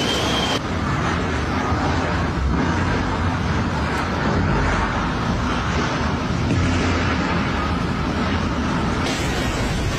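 Strong typhoon wind rushing and buffeting the microphone: a steady, loud noise with a heavy low rumble. It changes abruptly just under a second in and again near the end.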